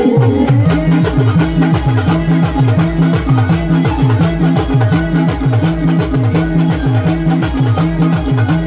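Timli folk dance music played by a band: a fast, steady drum beat with repeated falling bass hits under a repeating melody line, no singing.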